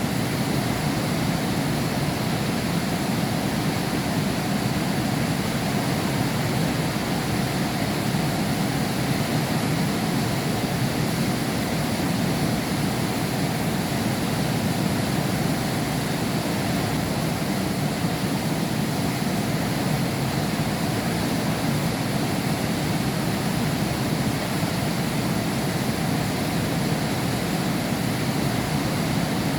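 Heavy rain, a steady dense hiss that does not change, fullest in its low rumble.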